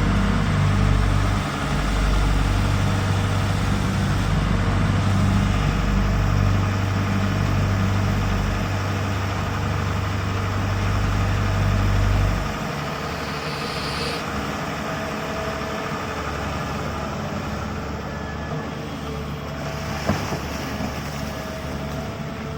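Road traffic noise, with a heavy vehicle's engine giving a steady low rumble that drops away suddenly about halfway through, leaving a lighter steady traffic hum and one sharp click near the end.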